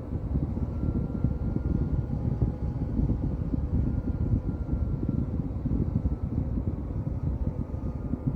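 Small battery-powered desk fan running steadily, its airflow making a low rushing noise on the microphone, with a faint motor whine above it.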